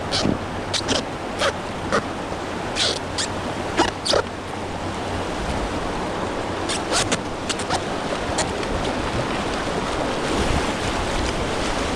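River water rushing steadily, with short splashes now and then, several in quick succession in places.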